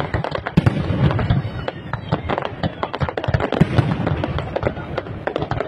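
Fireworks display at full barrage: a dense, unbroken run of sharp cracks and bangs, many per second.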